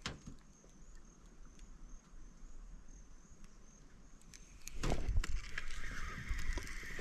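Faint insect chirring, a thin steady buzz. About five seconds in, louder rustling, splashing noise starts as a fish takes the lure, with a steady whirr from the fishing reel.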